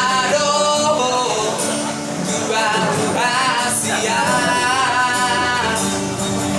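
A street busker singing a Batak-language song over instrumental accompaniment, with long held notes that waver in a vibrato.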